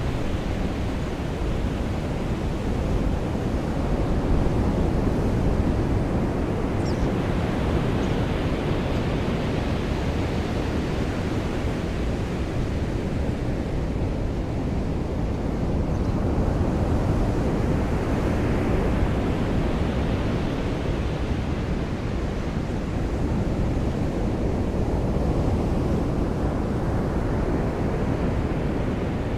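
Ocean surf washing ashore in the rain: a steady low roar of water that swells every several seconds as waves break.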